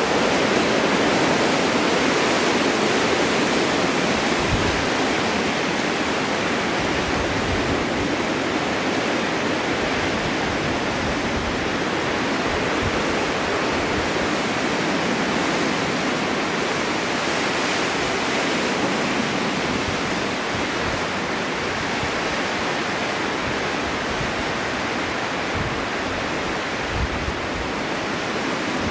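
Snowstorm wind blowing steadily: a continuous rushing noise with no lulls, with a few brief low buffets.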